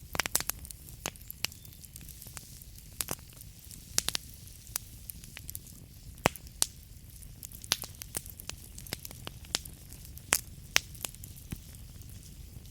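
Wood fire burning in a fireplace: the logs crackle with irregular sharp pops and snaps over a low steady rumble of the flames.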